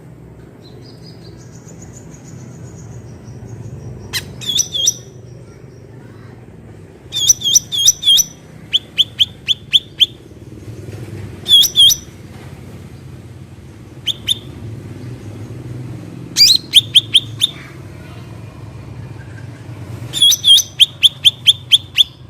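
Cucak ranting songbird calling: bursts of sharp, high chirps repeated rapidly in runs of several notes, coming again and again with short pauses between, over a steady low background hum.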